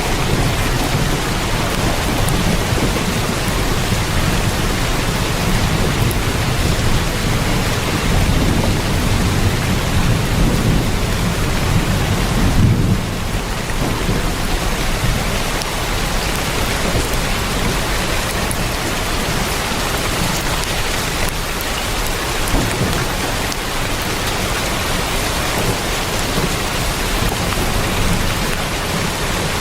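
Heavy rain drumming on a tin roof as a steady, even hiss. A low rumble swells under it through the first half and falls away about halfway through.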